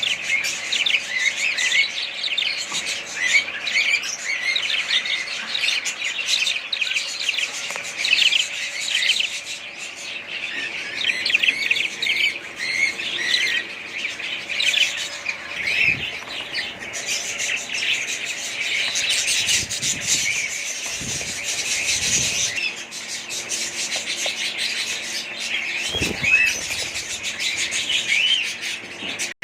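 A flock of small parrots chirping continuously, many calls overlapping, with a few soft low bumps in the second half.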